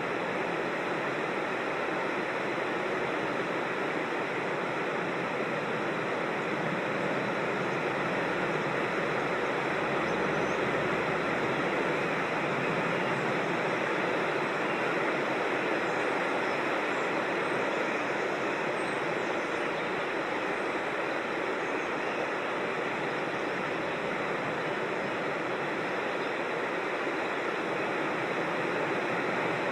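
Steady rush of creek water tumbling over rocks and small falls, an even noise that does not change.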